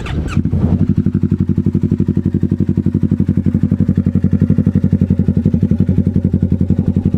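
Kawasaki Ninja motorcycle with an aftermarket exhaust starting up: the engine catches right at the start and, after a short rising rev, settles into a steady, evenly pulsing idle.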